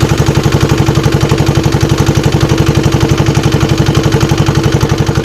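A boat's engine running steadily with a fast, even chugging, about ten beats a second.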